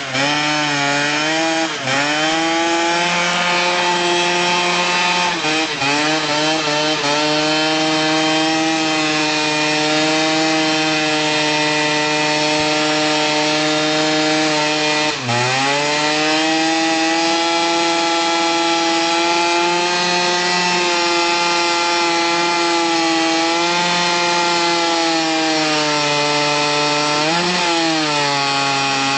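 A 50cc two-stroke motorcycle engine is held at high revs during a burnout, its rear tyre spinning on grass. The revs stay high and steady, dipping sharply and climbing back a few times.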